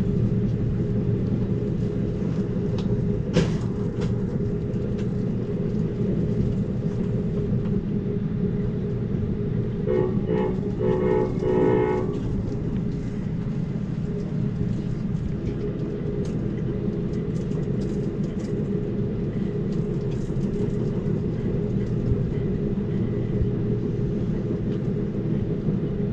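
Amtrak Cascades passenger train running along the track, heard from on board as a steady low rumble, with a single sharp clack a few seconds in. About ten seconds in, a pulsing pitched tone sounds for about two seconds.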